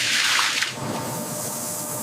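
A rushing hiss that swells and dies away about half a second in, followed by a steadier, fainter hiss with a light hum underneath.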